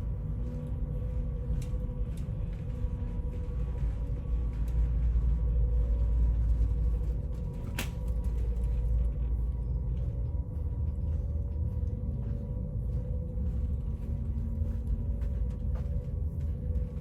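Steady low rumble with a faint constant hum, the background noise on board a cruise ship, swelling for a few seconds in the middle, with a single sharp click about eight seconds in.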